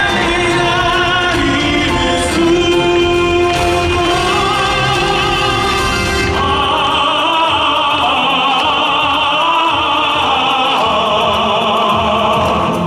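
Live operatic, classical-crossover singing over accompaniment. A long high note is held from about six seconds in until just before the end.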